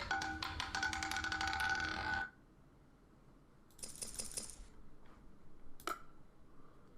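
Roulette ball rattling over a spinning roulette wheel, a dense run of rapid clicks that cuts off suddenly about two seconds in, followed by a brief cluster of clicks and one more click later.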